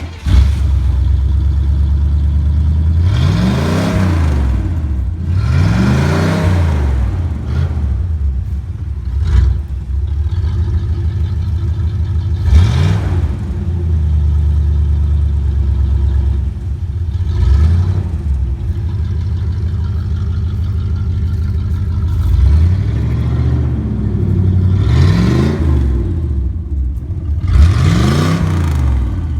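1959 Chevrolet panel truck engine idling, revved in short blips about seven times, each rising and falling back to idle.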